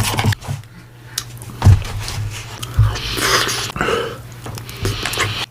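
Someone eating Blizzard soft-serve fast: spoon knocks and scoops, slurping and chewing, with a few sharp knocks.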